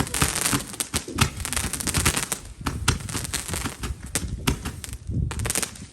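Small consumer fireworks or firecrackers crackling with rapid, dense popping, with a short lull about five seconds in.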